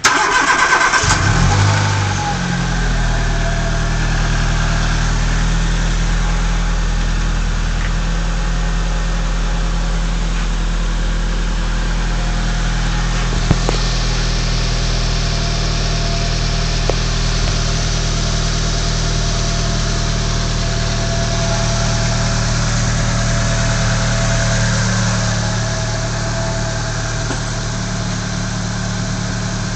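Nissan Cube BZ11's 1.4-litre four-cylinder engine is cranked by the starter and catches within about a second. It flares up briefly, then settles into a steady idle.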